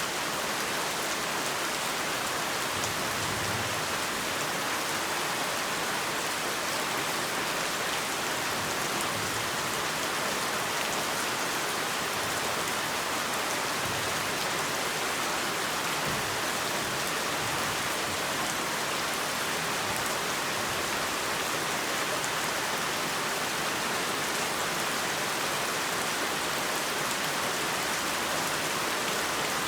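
Heavy rain falling steadily, a dense, even hiss of drops on surfaces with fine patter, unchanging in level.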